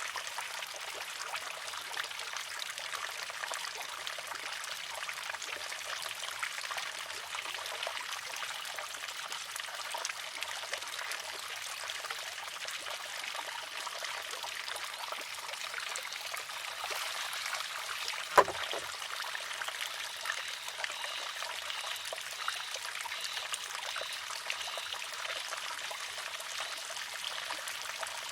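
Wooden water-driven shishi-odoshi: water trickling steadily, with one sharp clack about two-thirds of the way through as the filled arm tips and strikes the stone.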